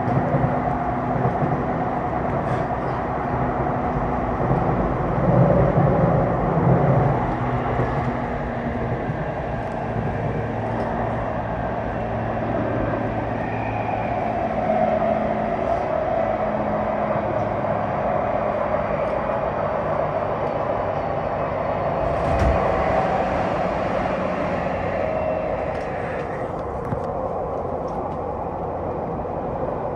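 Tokyu 9020 series electric train running, with a steady wheel-on-rail rumble and the tones of its Mitsubishi full-SiC MOSFET VVVF inverter-driven traction motors. Its higher hiss thins out near the end.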